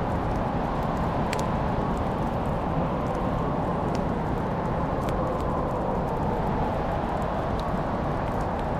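Wood fire crackling in a fireplace: a few sharp, scattered pops over a steady low rushing noise.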